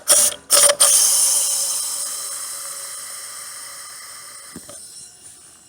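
Diversitech GG-1 CO2 drain gun blasting gas into a clogged AC condensate drain line. Two short bursts, then a long hissing blast with a faint whistle that slowly fades away. A brief low thump comes near the end.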